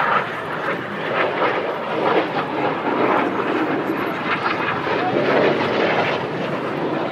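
BAE Hawk T1 jets of the Red Arrows passing at low level, their jet engines making a loud rushing noise that swells in at the start and eases off near the end.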